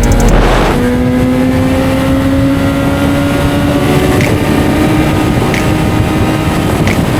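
Kawasaki Z900's inline-four engine running under way, its note climbing slowly and steadily as the bike gains speed. There is a brief rush of noise about half a second in.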